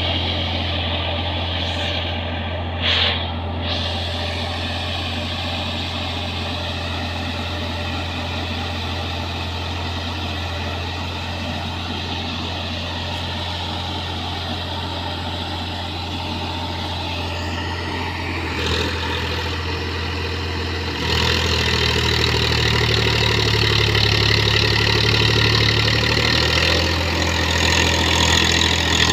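Massey Ferguson 7250 tractor's three-cylinder diesel engine running steadily under load, growing louder about 21 seconds in. There is a brief higher-pitched sound about 3 seconds in.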